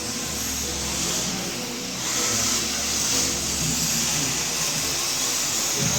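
Radio-controlled cars running on pavement: a steady rush of motor and tyre noise that gets louder about two seconds in.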